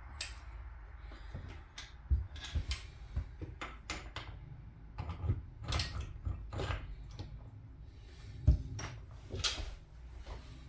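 Irregular clinks, clicks and knocks of small metal parts and hand tools being handled during reassembly of an old outboard motor's lower unit, with a heavier thump about two seconds in and a louder one past the middle.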